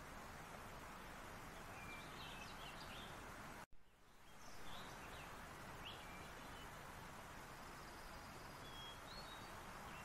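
Steady outdoor background hiss with faint, scattered high chirps of small birds in the distance. The sound cuts out abruptly for a moment a little over a third of the way through, then fades back in.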